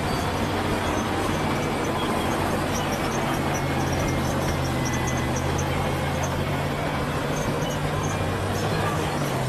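Bulldozer's diesel engine running steadily under load, its note stepping up slightly about a second in.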